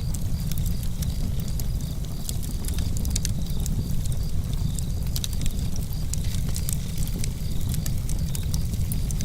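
Campfire burning, a low steady rumble with frequent sharp crackles and pops of the wood. Crickets chirp throughout in even, repeated pulses.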